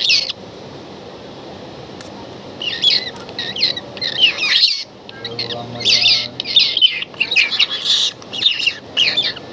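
Kingfisher chick giving rapid high chirping begging calls while being hand-fed, in repeated bursts that start about two and a half seconds in.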